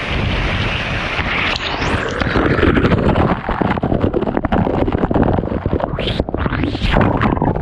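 A waterfall's rushing roar close to the camera, then, from about a second and a half in, heavy crackling and rubbing on the microphone, as from spray or handling.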